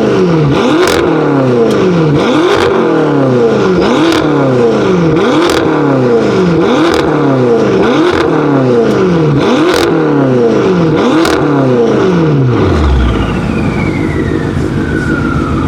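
BMW M5 F10's twin-turbo V8 revved in quick repeated blips, about one every 0.8 s, with a crack from the exhaust on each one. About 13 s in it settles to idle and a falling whine follows.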